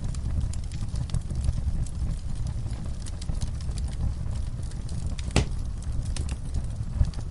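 Wood fire burning in a fireplace: a steady low rumble with scattered crackles, and one louder pop about five seconds in.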